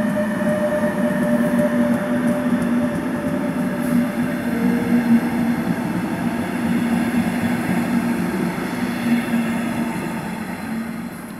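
EU47 (Bombardier TRAXX) electric locomotive hauling double-deck coaches away from a station. The steady electric hum of its asynchronous traction motors runs over the rumble of wheels on the rails. The hum steps down in pitch a few seconds in, and the sound fades slowly toward the end as the train moves off.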